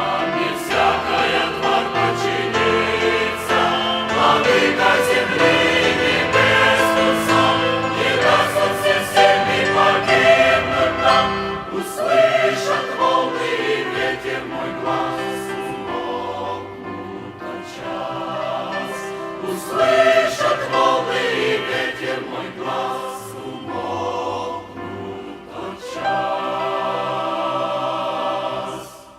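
A choir singing a Christian psalm with instrumental accompaniment and a bass line, ending on a long held final chord that fades out.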